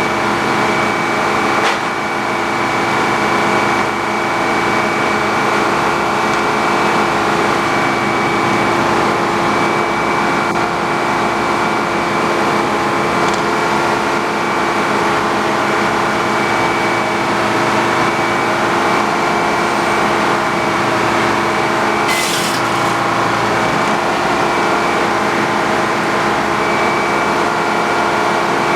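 Sawmill running steadily at an even pitch, with a click near the start and a short, sharp burst about three quarters of the way through.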